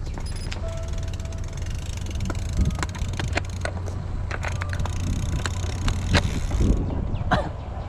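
Steady low wind rumble on the microphone during a bicycle ride, with scattered sharp clicks and knocks, the loudest about two and a half and six seconds in.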